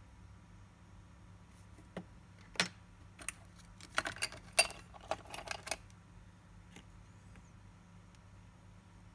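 Small metal watchmaking tools and watch parts clicking and clinking: a cluster of light, sharp clicks starting about two seconds in and lasting some four seconds, with one faint click after. A faint steady hum runs underneath.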